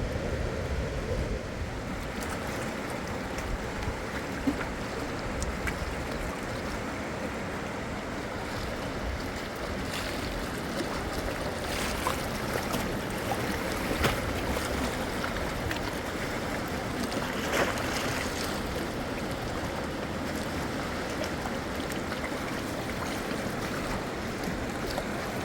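Steady rush of fast-flowing river water, with a few sharp knocks scattered through it.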